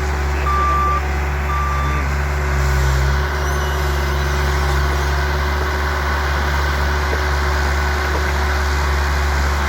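Bobcat loader's engine running steadily at work, its reversing alarm beeping about once a second and stopping about two seconds in.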